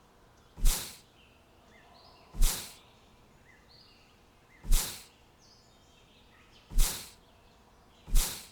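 Faint bird chirps over a steady background, broken by five short, sharp, hissing bursts about every two seconds.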